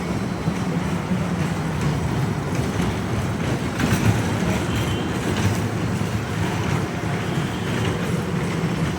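Small ride boat's motor running steadily with a low rumble.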